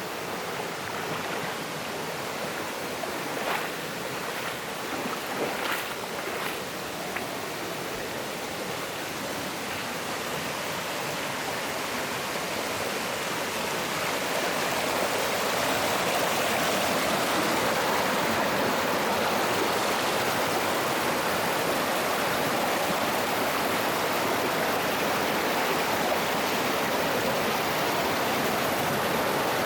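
Mountain stream flowing over rocks, a steady rush of water that grows louder about halfway through. There are a few short sharp sounds in the first several seconds.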